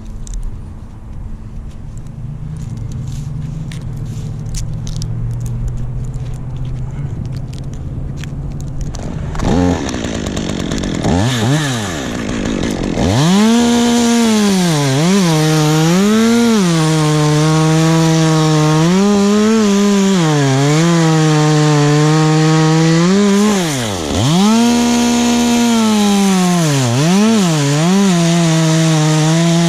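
A chainsaw cutting wood. A low engine rumble runs for the first third; then the saw revs up and runs hard, its pitch dropping each time it bogs into the wood and rising again as it frees up, with one deep drop about four-fifths of the way through.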